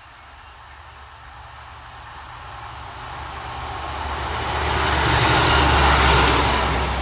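Northern Class 150 diesel multiple unit approaching and passing close by, its low engine drone and running noise growing steadily louder, loudest about five to six seconds in as the front of the train goes past.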